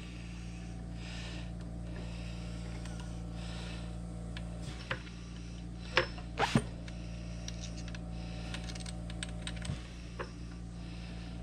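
Scattered sharp clicks and taps of hand tools and parts on a Framon key machine being fitted and snugged up, the loudest cluster about six seconds in, over a steady low hum.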